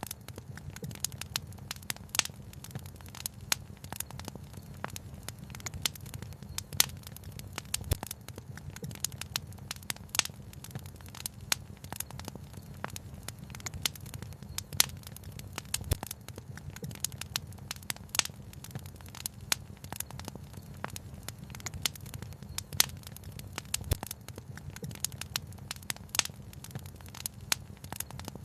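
Fireplace fire crackling, with frequent irregular snaps and a few louder pops over a steady low rumble.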